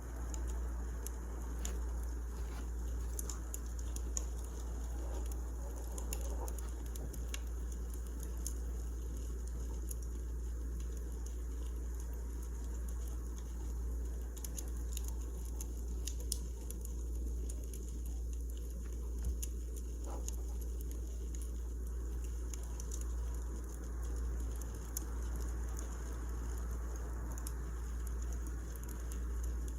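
Wood fire crackling, with scattered small pops and snaps over a steady low rumble.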